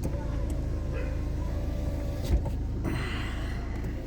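A motor vehicle's engine running with a steady low rumble, with a single thump a little past two seconds in.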